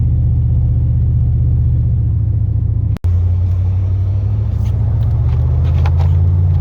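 Steady low drone of a plow pickup truck's engine and drivetrain heard from inside the cab while driving, with a brief cut-out about three seconds in.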